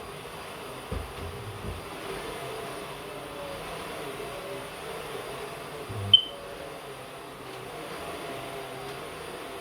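Vacuum cleaner running with a steady motor hum, with a few soft knocks about a second in and one sharp click about six seconds in.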